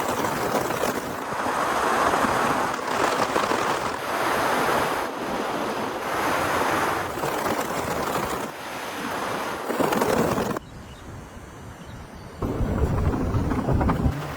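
Heavy rain and strong wind, changing abruptly every second or so as short stretches follow one another. There is a quieter stretch about ten seconds in, then a loud deep rumble near the end.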